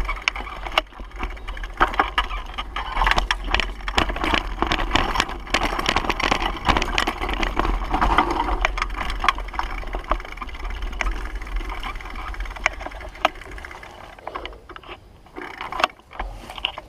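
Bicycle being ridden, rattling and clattering with many irregular knocks over a steady low rumble; the knocks thin out in the last few seconds.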